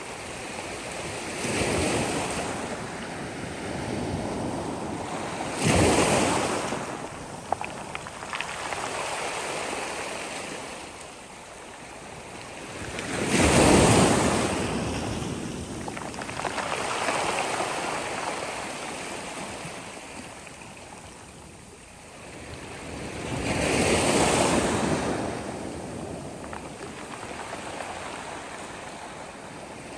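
Sea waves breaking on the shore: a steady wash of surf swelling into four crashing surges, the loudest about halfway through.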